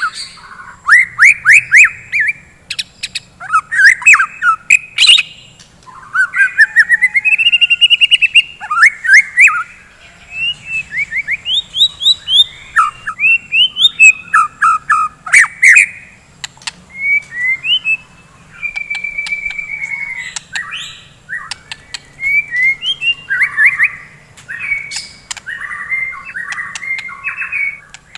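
White-rumped shama (murai batu) singing continuously: a rapid, varied run of whistled phrases, quick rising trills and chattering squawks, with sharp clicking notes mixed in.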